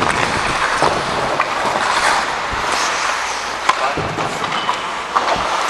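Pickup hockey play: a steady scrape of skates on the playing surface, with scattered sharp clicks of sticks hitting the puck and each other.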